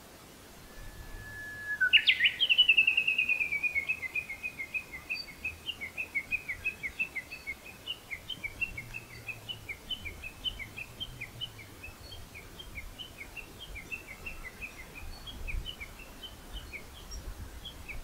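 A songbird singing: one long whistled note, then a loud quick flourish about two seconds in that runs straight into a long series of short repeated chirps, which slowly space out.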